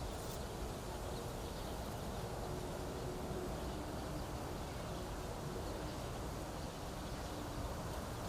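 Wind blowing steadily through a stand of reeds, with a low rumble of wind on the microphone and a faint steady hum underneath.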